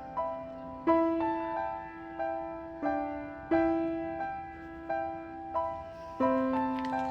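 Background music: a slow, gentle piano melody, single notes struck about once a second and left to ring and fade.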